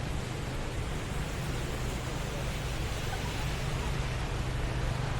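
Steady city street ambience: an even wash of noise with a low hum underneath and no single event standing out.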